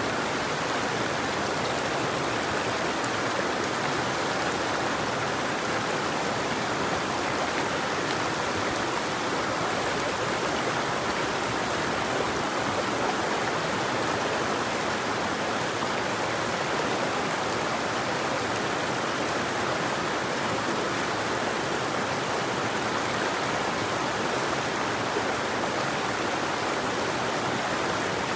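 Steady rushing of a flowing river or stream, an even, unbroken water noise with no birdsong.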